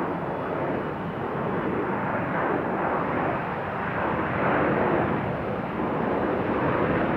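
Large jet airliner passing overhead, its engines making a loud, steady rushing rumble that swells and eases in waves.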